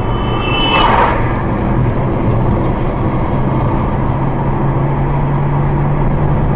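Steady car engine and road noise with a low hum, and a brief rushing sound about a second in.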